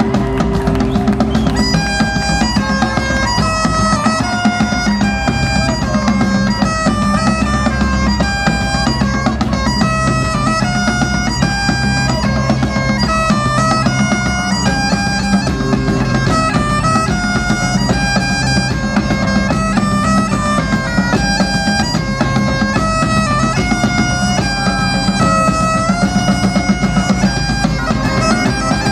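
Bagpipes playing a quick stepping melody over their steady drones, with Celtic tribal drums beating underneath.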